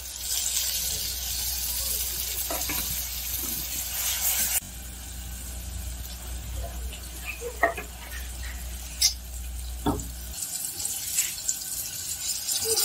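Chopped vegetables and tomato sizzling in oil in a pressure cooker, with a few sharp knocks of a ladle against the pot. The sizzle is strongest for the first few seconds and drops abruptly after about four and a half seconds. A steady low hum runs underneath until about ten seconds in.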